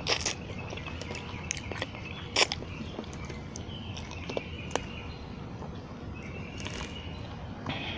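Close-up eating sounds: chewing and biting with sharp clicks, the loudest just after the start and again about two and a half seconds in. Birds chirp faintly in the background through the second half.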